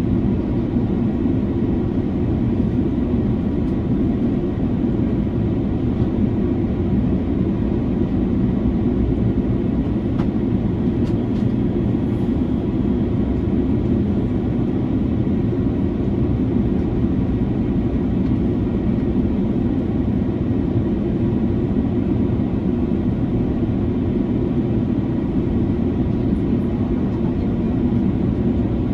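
Steady cabin noise of an Airbus A330-300 in cruise: an even, low rush of airflow and engine noise, heard from inside the cabin, unchanging throughout.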